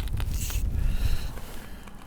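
Wind buffeting the microphone in a gusty, uneven low rumble, with a few light clicks and knocks mixed in.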